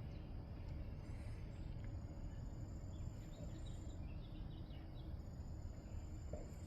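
Quiet outdoor ambience with a low steady background rumble. A thin, steady, high-pitched insect drone comes in two long stretches, and a few faint bird chirps sound around the middle.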